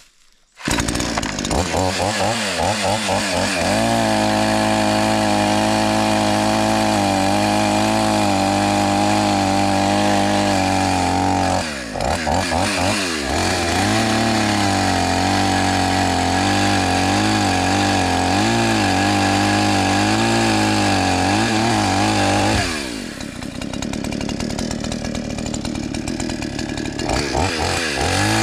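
Chainsaw starting up suddenly, then run at high revs as it cuts a fallen tree, with a brief drop in revs about twelve seconds in. About twenty-three seconds in it falls back to a lower, idling-like run, then revs up again near the end.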